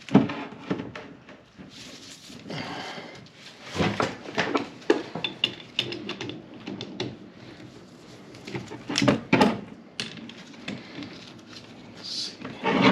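Scattered metal knocks and clanks from handling a wrench and a differential carrier while tightening the ring gear bolts. The sharpest knocks come right at the start and around four, nine and nearly thirteen seconds in.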